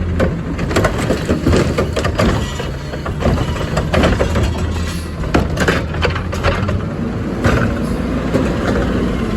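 Peterbilt 520 garbage truck's diesel engine running steadily under a scatter of knocks and cracks: trash and a cart clattering during a pickup.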